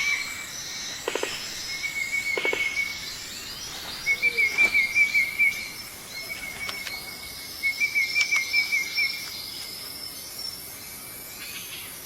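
Forest ambience: a high, buzzing trill repeated in runs of one to two seconds, over a faint steady hiss, with a few short animal calls between the runs.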